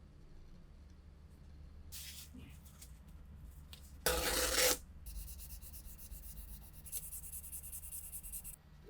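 A short, loud burst of hiss about four seconds in, then quick rhythmic rubbing strokes over a rusty metal part, typical of rust being scrubbed or sanded off.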